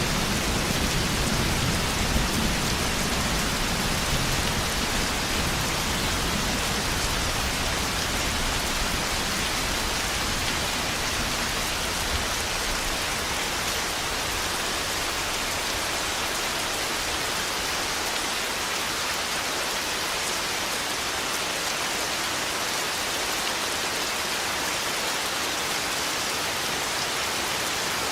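Steady heavy rain hissing, with the low rumble of thunder dying away over the first several seconds.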